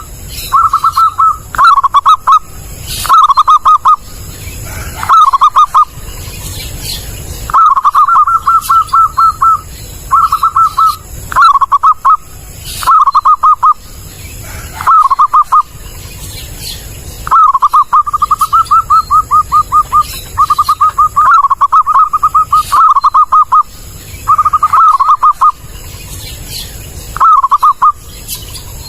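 Zebra dove (perkutut) cooing: phrase after phrase of quick, staccato repeated notes, some ending in a short hooked note, with brief pauses between.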